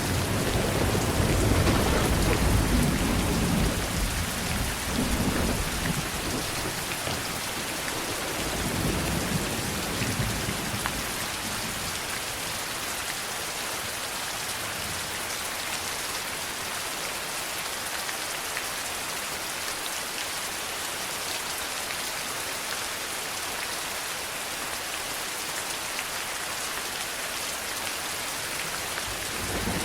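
Steady heavy rain hissing, with a long low roll of thunder in the first few seconds that fades away, leaving the rain alone until another rumble begins right at the end.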